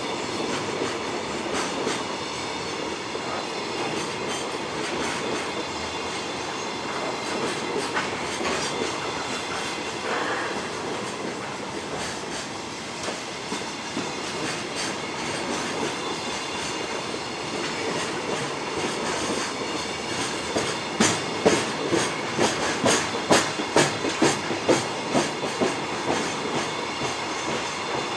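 Empty container flatcars of a freight train rolling past, a steady rumble and metallic rattle of wheels and bare frames. About three quarters of the way through comes a run of sharp, rhythmic wheel clacks, the loudest part.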